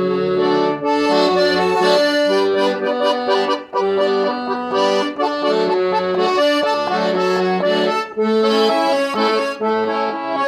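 Accordion playing an instrumental break in a Portuguese-language gospel song: a melody of held notes over chords, with no singing.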